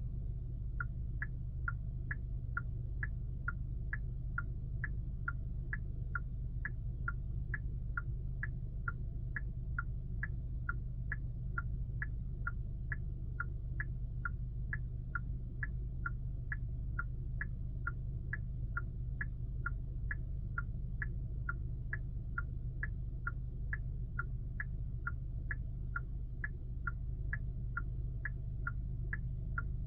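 Genesis GV80 turn-signal indicator ticking steadily, about two ticks a second, over the low steady rumble of the car on the road, heard inside the cabin.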